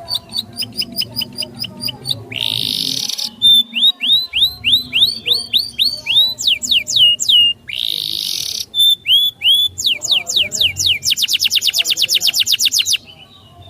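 Songbird singing a fast series of repeated sweeping whistled notes, broken twice by a harsh, raspy phrase about a second long, and ending in a rapid trill that cuts off suddenly.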